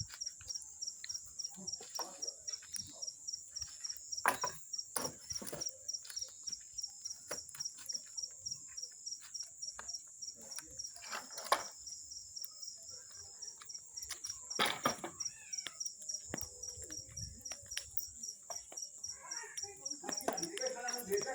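Crickets chirping in a steady, fast, pulsing high trill, with occasional sharp cracks and knocks from the bonfire and its firewood.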